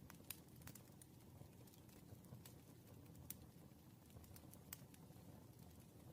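Faint, irregular clicks and taps of desk work, half a dozen scattered through, over a low steady room hum.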